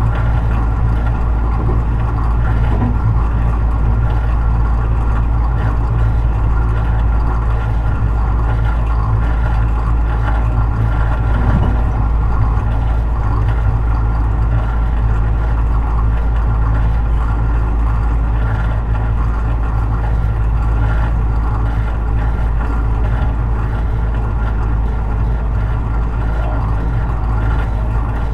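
Tobu 50090 series electric train running steadily at speed, heard inside the car near the floor: a continuous deep rumble of wheels on rail and running gear.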